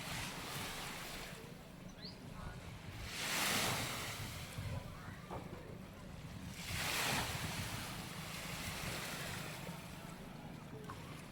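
Small waves breaking and washing up the beach, two swells of surf about three and a half seconds apart, with wind rumbling on the microphone.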